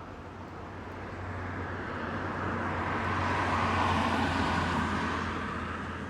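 A road vehicle passing by: its noise swells to a peak about halfway through, then fades away. A steady low hum runs underneath.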